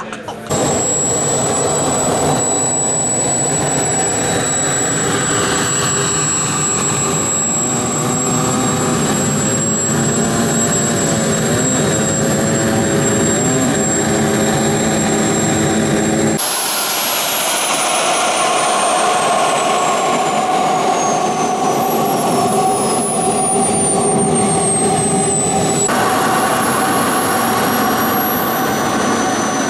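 Radio-controlled model aircraft engines running with a steady high whine. In the middle stretch the whine falls slowly in pitch, and the sound changes abruptly twice.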